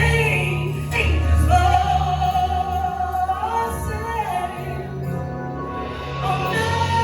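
Gospel-style singing with band accompaniment. The singer holds one long note through the middle over sustained keyboard chords and a steady bass line.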